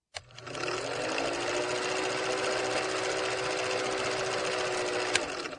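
Bench drill press driven by a treadmill motor, switched on with a click and spinning up over about half a second to a steady whine over a mechanical hum. It is switched off with a click near the end and stops.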